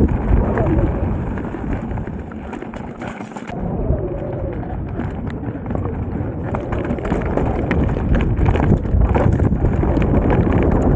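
Mountain bike riding over a rocky trail: a constant clatter of knocks and rattles from the tyres and bike, under heavy low wind rumble on the action camera's microphone. It eases off briefly about two seconds in, then picks up again.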